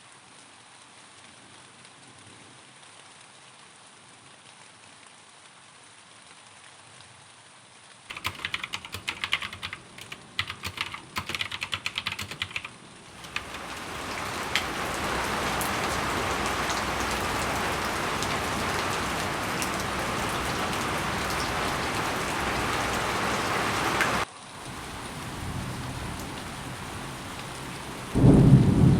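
A faint hiss, then about five seconds of rapid computer-keyboard typing, followed by steady heavy rain. After a sudden cut the rain is quieter, and near the end a loud low rumble of thunder breaks in.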